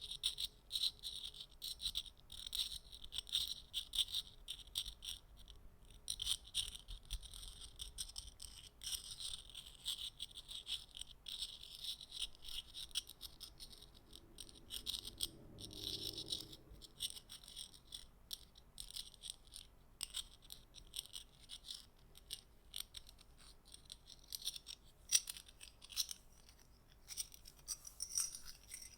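Soft, rapid clicking and clinking of small hard objects handled close to the microphone, as an ASMR trigger. The taps run densely and unevenly the whole time with a bright, tinkling edge.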